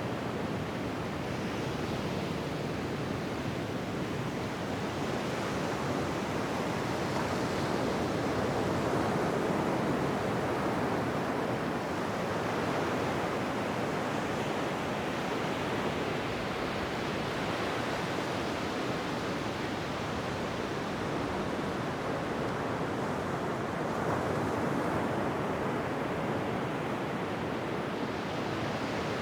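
Ocean waves washing onto a beach, a continuous surf rush that swells and eases slowly, louder around ten seconds in and again near twenty-five.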